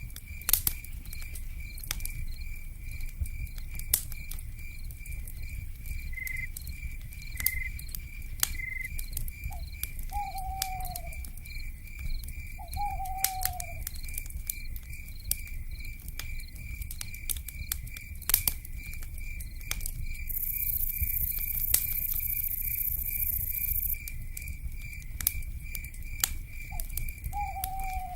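Wood fire crackling with frequent sharp pops over a low rumble, beneath a steady pulsing insect trill. Three times a short falling owl call sounds, and about two-thirds of the way through a high hiss rises for a few seconds.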